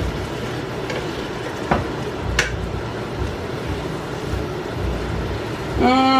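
Steady hiss of food cooking in a pan on the stove, with two light clicks of a utensil in the first half. Near the end a long vocal note sliding slowly downward begins.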